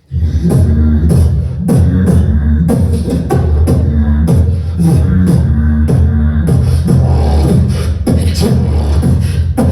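Beatboxing: a deep, pitch-shifting mouth bass line under sharp rhythmic snare and hi-hat clicks, keeping a steady groove.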